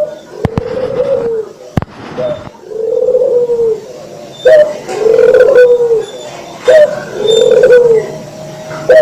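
A burung puter (Barbary or ringneck dove) cooing over and over, about four low rolling coos roughly two seconds apart, the later ones each opening with a short sharp note. A few brief clicks come in the first two seconds.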